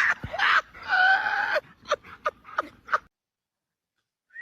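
A dog giving a drawn-out whining cry, then four short yelps in quick succession, before the sound cuts off abruptly.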